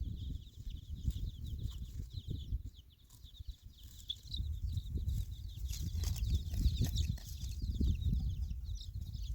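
Birds chirping with many short, high calls, over a low rumble.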